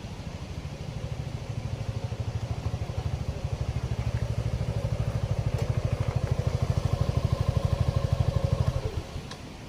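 Motorcycle engine idling with a fast, even pulsing beat that grows somewhat louder, then is shut off about nine seconds in.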